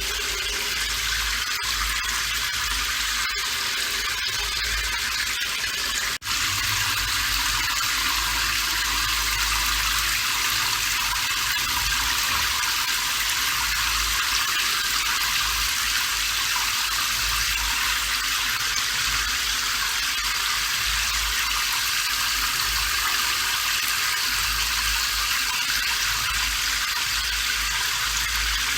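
Steady rain, an even hiss with a low rumble underneath; it drops out for an instant about six seconds in.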